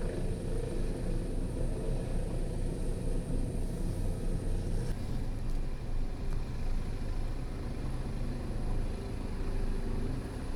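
Helicopter hovering: a steady, low rotor and engine drone. About five seconds in, a higher part of the sound drops away.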